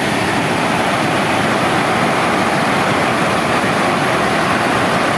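Water pouring over a weir waterfall: a loud, steady rushing roar.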